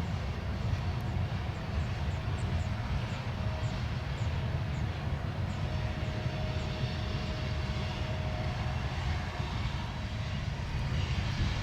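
Freight train running by on diesel power: a steady low rumble with no let-up, a faint thin tone and light ticking over it.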